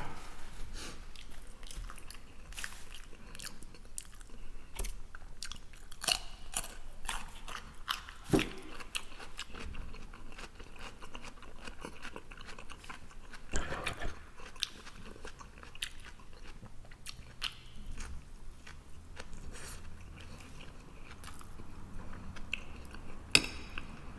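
Close-miked mouth chewing of mashed potatoes and a meat cutlet: a continual run of wet smacking clicks, with a few louder clicks now and then.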